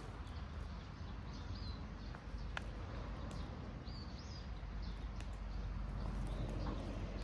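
A small bird giving short high chirps, several scattered through, over a steady low rumble of outdoor background noise, with a few faint clicks.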